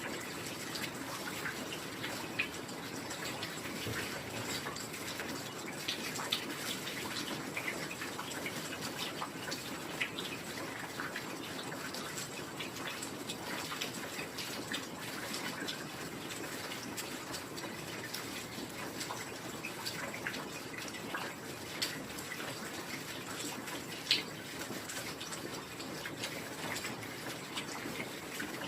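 Steady heavy rain falling, with individual drops ticking sharply here and there and one louder drop about 24 seconds in.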